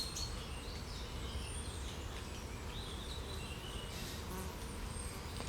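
Songbirds calling at a distance, short high chirps and whistles scattered through, over a steady low rumble.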